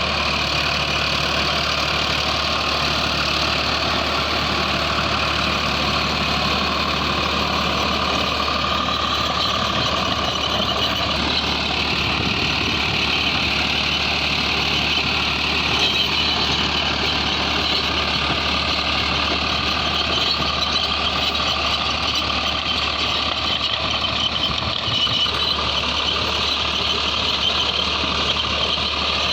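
Farmtrac 60 PowerMaxx T20 tractor's engine running steadily at constant speed while pulling an 8-foot rotavator.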